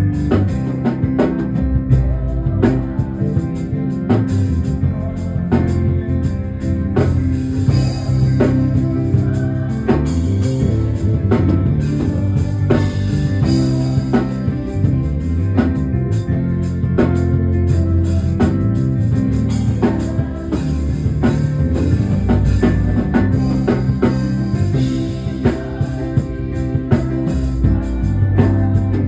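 Church band music with a drum kit and guitar, playing steadily with a heavy bass line.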